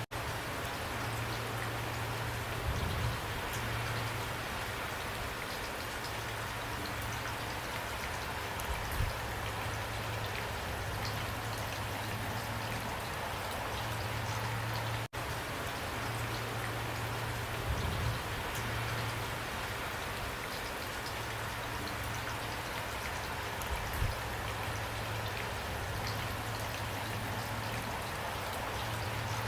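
Steady rain falling, an even hiss with a few heavier low thuds now and then. The sound drops out for an instant about halfway.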